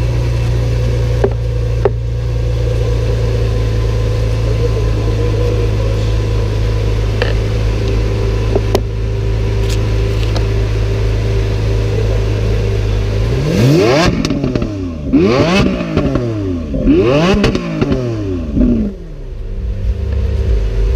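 Bugatti Centenario's 8.0-litre quad-turbo W16 engine idling steadily, then revved three times in quick succession about two-thirds of the way in, each rev rising and falling, before it settles back to idle.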